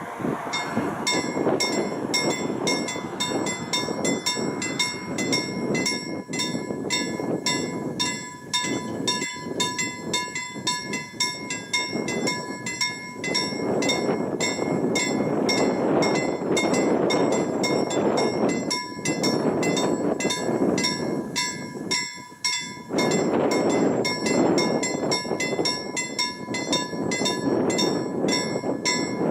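Level crossing warning bell ringing in quick, even strokes, about three a second, starting about a second in. It rings over a loud, shifting rushing noise of wind and a train.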